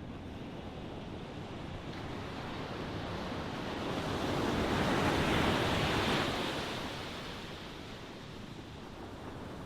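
Ocean waves breaking on a shore: a steady wash of surf, with one wave swelling to a peak about halfway through and then receding.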